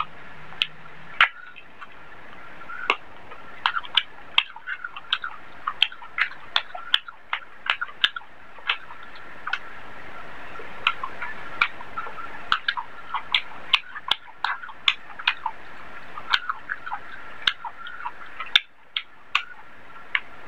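Close-miked eating by mouth: wet chewing and smacking on rice and chicken curry, a run of many short, irregular clicks.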